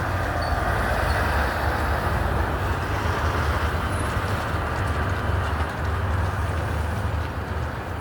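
A large motor vehicle's engine running steadily: a continuous low rumble with a haze of street noise over it.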